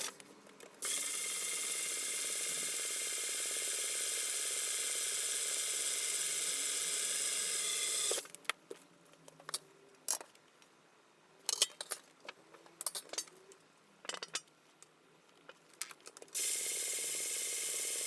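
A small electric power tool running steadily with a whine, cutting out abruptly after about eight seconds. Several seconds of scattered clicks and taps follow, like metal parts being handled, then the tool starts up again near the end.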